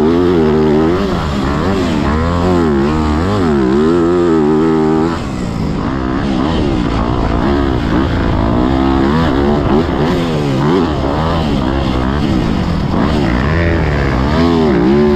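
Yamaha YZ250F four-stroke single-cylinder motocross engine under riding load, its revs rising and falling over and over as the throttle is worked. The throttle briefly comes off about five seconds in.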